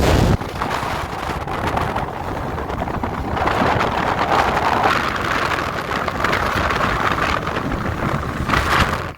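Strong wind buffeting the microphone, a loud, uneven rushing noise. It drops sharply about half a second in and stops abruptly near the end.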